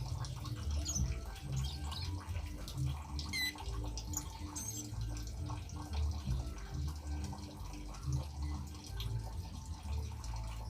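Water trickling and dripping steadily, with a few short, high bird calls over it, the clearest about three and a half seconds in.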